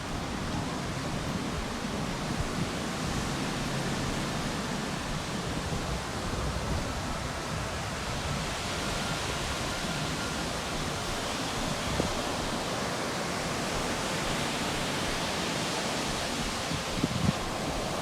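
Steady rushing noise of surf and wind, an even wash with no single wave breaks standing out.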